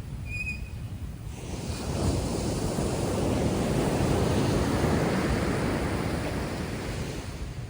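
Heavy surf on a rough sea after a typhoon: a big wave breaks about a second in, its rush swelling and washing for several seconds before fading near the end. Wind rumbles on the microphone underneath.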